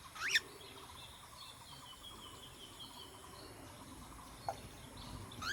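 Faint outdoor bird and insect chirping, with one short, sharp rising chirp just after the start and a small click a little before the end.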